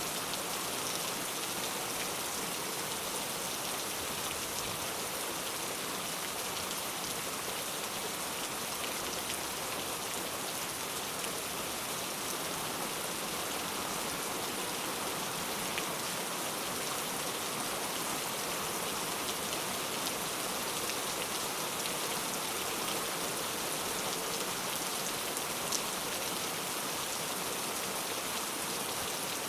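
Heavy rain falling steadily on hard surfaces: an even, unbroken hiss with scattered individual drop ticks.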